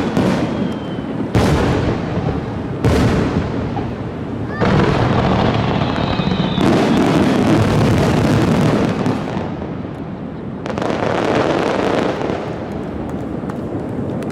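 Fireworks display: separate sharp shell bursts in the first few seconds, then a dense, sustained barrage of overlapping bursts and crackle, with a few faint whistles.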